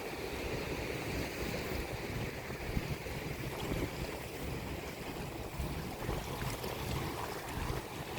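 Sea waves washing steadily on the shore, with wind buffeting the microphone.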